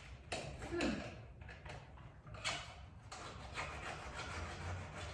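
Irregular scraping and rubbing of a hand tool working at the wood of an old transom sash, several short strokes of uneven length.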